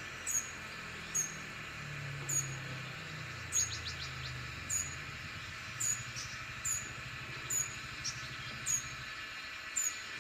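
Asian emerald cuckoo calling: a short, very high, sharply falling note repeated about once a second, over a steady background hiss.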